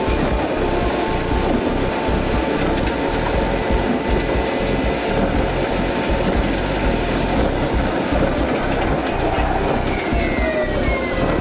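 Osaka Metro New Tram, a rubber-tyred automated people mover, running along its guideway with a steady rumble and hiss of running noise. Faint steady motor tones run underneath, and near the end a whine drops in pitch.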